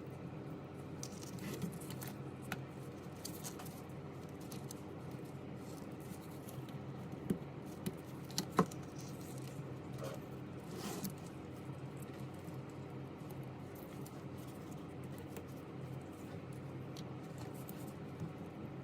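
Scattered small clicks and taps of hand tools on phone parts during repair work, a few sharper ticks about halfway through, over a steady low hum.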